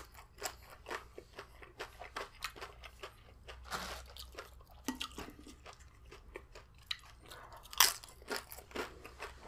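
Tortilla chips being chewed close to the microphone: a steady run of small crisp crunches, with a louder crunch as a fresh chip is bitten nearly eight seconds in.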